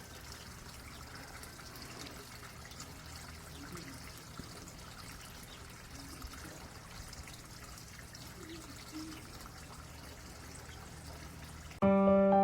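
Steady faint background hiss with a few weak brief sounds in it. Piano music starts abruptly near the end.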